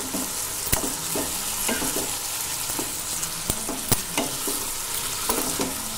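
Potato and brinjal pieces frying in masala in a non-stick kadai, with a steady sizzle. A wooden spatula stirs them, and its scrapes and knocks on the pan come as scattered sharp clicks.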